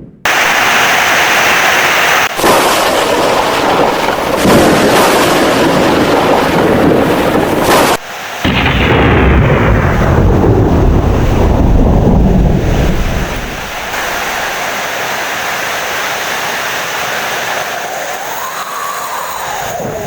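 Heavy rain with loud rolling thunder for about the first thirteen seconds, broken by two abrupt cutoffs; then the thunder dies away, leaving steady rain.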